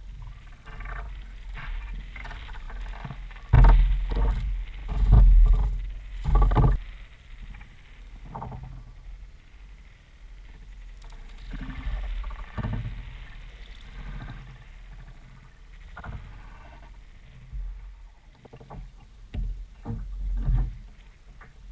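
Ocean Kayak Trident 4.3 sit-on-top kayak on the sea: irregular splashes and knocks of water and paddle against the plastic hull. The knocks are loudest for a few seconds near the start and come again near the end.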